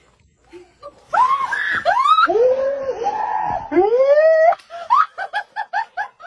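A high-pitched voice screaming in several long cries that rise and fall, then breaking into a quick run of short laughing pulses near the end.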